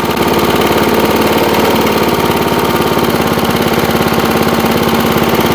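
1979 Rocket push mower's 3.5 hp Briggs & Stratton single-cylinder engine running steadily with even, rapid firing pulses, a little louder from just after the start. It runs smoothly now that Marvel Mystery Oil has been worked through its carburetor.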